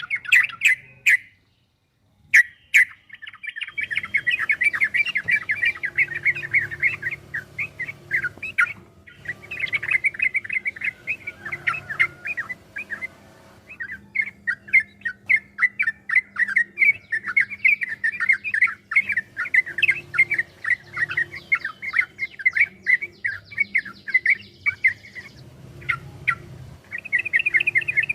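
Yellow-vented bulbul (trucukan) singing a long, fast run of chattering notes. The song breaks off briefly a few times.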